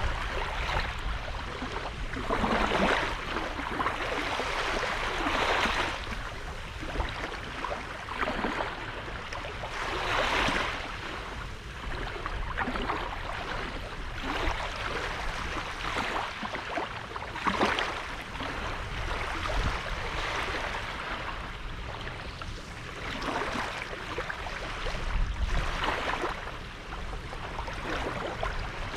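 Small sea waves washing onto the shore, surging in irregular swells every few seconds over a steady low rumble.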